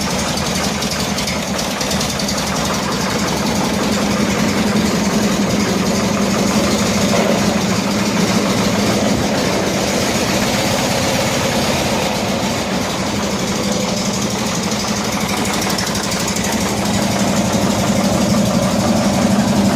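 1974 Cushman Truckster engine idling steadily in third gear, turning the rear wheels freely with the truck up on the lift.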